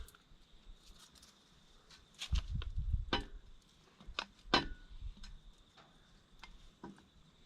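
Hand grease gun being worked on an excavator blade pin's grease nipple: a few sharp metallic clicks about a second apart, with a low clunk of handling around the first of them.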